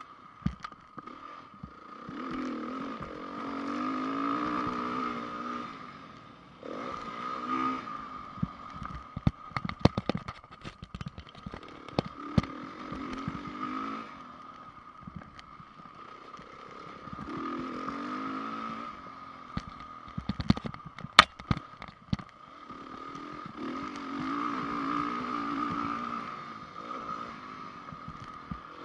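2010 Honda CRF450 four-stroke single-cylinder dirt bike engine revving up and backing off in repeated swells as it is ridden round a motocross track. Sharp knocks and clatter from the bike come in two clusters, about a third of the way in and again past the middle.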